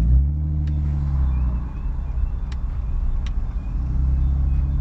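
Infiniti G35 coupe's 3.5-litre V6 engine accelerating. The revs climb right at the start, hold steady, ease off in the middle and pick up again near the end, with a few faint clicks.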